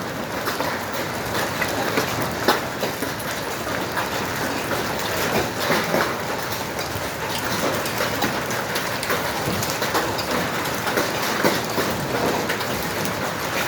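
Heavy rain and golf-ball-sized hail pelting down: a dense hiss with a constant scatter of sharp ticks and knocks as hailstones strike hard surfaces.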